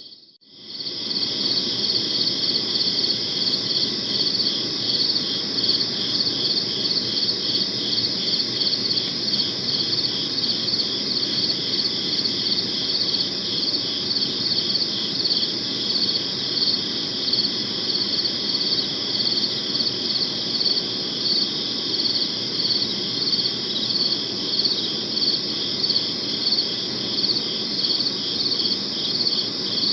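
Crickets chirping in a dense, steady chorus of rapid pulses over a low background hiss. The sound drops out briefly at the very start and fades back in within about a second.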